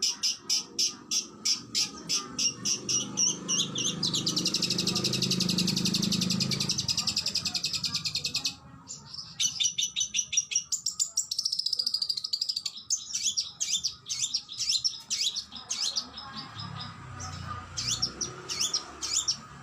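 Oriental magpie-robin (kacer) singing in fast bursts. It opens with runs of sharp repeated notes, goes into a dense fast trill about four seconds in that breaks off suddenly near the middle, and then moves on to varied whistles and quick chips.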